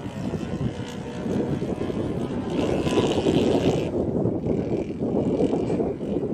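Engine of a Seagull Edge 540 radio-controlled model aerobatic plane running with its propeller turning, louder for a stretch around the middle.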